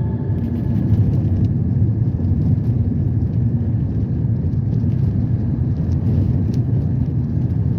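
Steady low rumble of motor vehicle engine and road noise, with faint scattered clicks.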